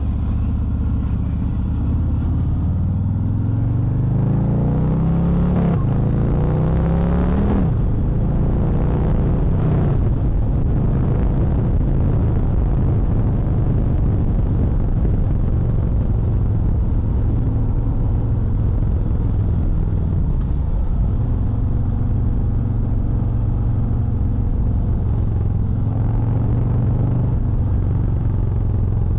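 Harley-Davidson Fat Bob 114's Milwaukee-Eight 114 V-twin under way, pulling through the gears: the engine note rises, drops sharply at a gear change about six seconds in, and rises again. It then settles into a steady cruise.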